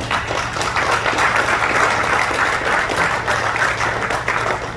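Audience applauding: many hands clapping, starting at once and tapering off near the end.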